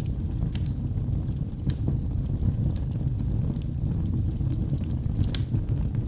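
Wood fire burning in a fireplace: a steady low rumble of flames with sharp crackles and pops of burning wood scattered throughout, one louder pop about five seconds in.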